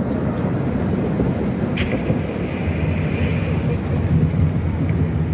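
Fireworks heard as a continuous low rumble of distant bursts, with one sharp crack about two seconds in.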